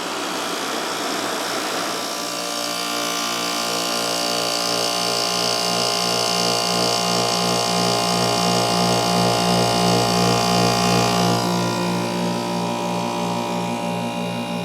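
Rotary compressor of a 1994 Amana CoolZone 6,500 BTU window air conditioner running with its fan stalled. A steady, slightly pulsing hum is left once the rush of air dies away about two seconds in. A high hiss rides over the hum and eases off near the end.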